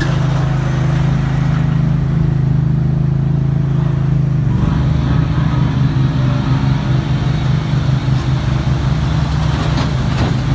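An engine running steadily with a loud low hum. About halfway through its note changes and turns rougher and more uneven.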